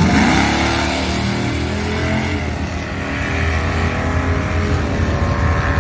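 Car engine whose pitch falls steadily over the first second or two, then runs on at a low, steady note.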